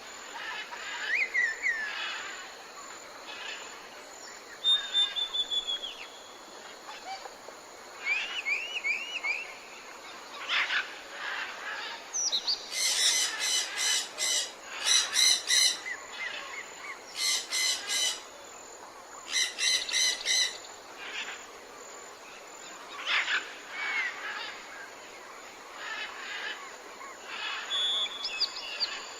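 Several wild birds calling: scattered chirps and short whistled notes, some sliding in pitch. Midway there are four bursts of fast, harsh chattering notes.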